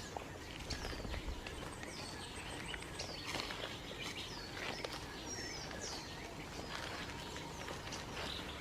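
Short high chirps, each sliding down in pitch, repeating roughly once a second over a steady outdoor background hiss, with a faint thin high whine for a few seconds in the middle.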